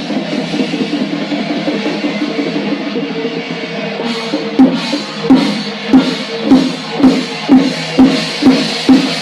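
Drum-led music: a dense stretch of drumming under a held tone, then about halfway a heavy drum starts a steady beat of about two strokes a second, quickening slightly.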